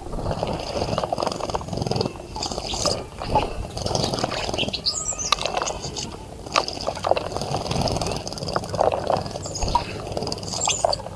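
Water splashing and dripping in a bird bath as birds bathe, with a few short high bird chirps.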